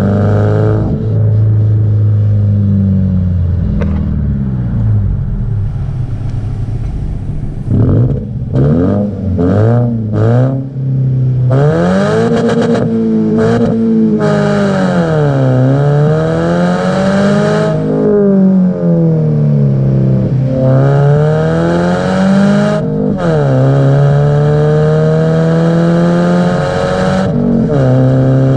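Subaru Impreza 1.5R's flat-four engine and exhaust under way, the revs climbing and then dropping sharply several times as it shifts through the gears. Around a third of the way in there is a choppy stretch of short, stop-start bursts of revs.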